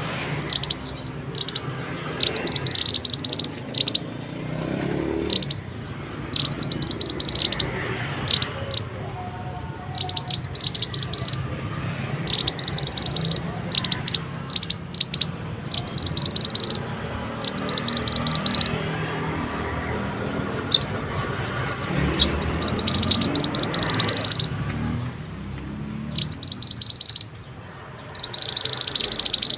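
Mantenan (pied bushchat) singing: high-pitched bursts of rapid trilled notes, each lasting from a fraction of a second to about a second and a half, repeated many times with short pauses between. A faint low rumble lies underneath.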